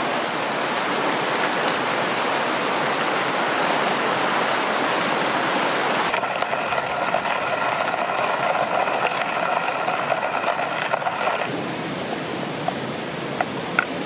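A river or stream flowing steadily, an even rush of water. About six seconds in the sound cuts abruptly to a duller version with faint steady tones, and a few light clicks come near the end.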